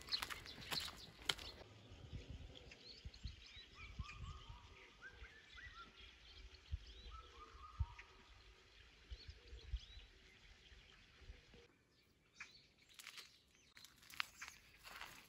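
Wild birds calling quietly with repeated short rising chirps. Footsteps and rustling are heard at the start and again near the end.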